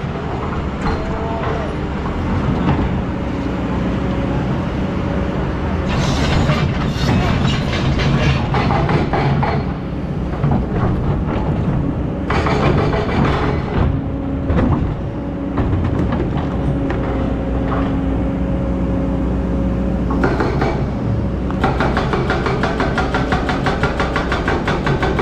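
Excavator's diesel engine running steadily under load, with several spells of a few seconds each of dense, fast clattering and rattling from the machine at work.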